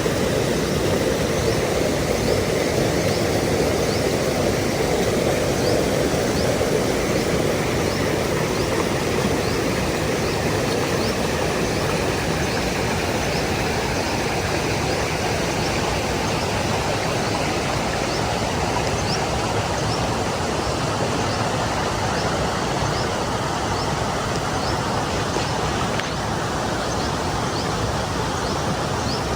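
Stream water flowing and splashing over rocks, a steady unbroken rush.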